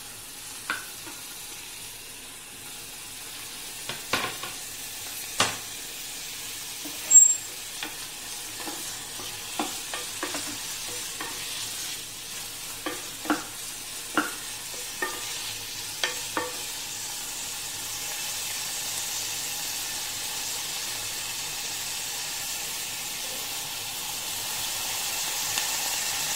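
Chopped onion, capsicum and sweet corn sizzling in hot oil in a pan while a wooden spatula stirs them. Scattered taps and scrapes of the spatula on the pan come through the first two-thirds, and the sizzle grows a little louder toward the end.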